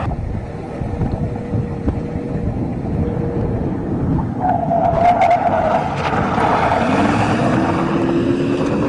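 A motor vehicle's engine running, with wind buffeting the microphone; about seven seconds in the engine note rises.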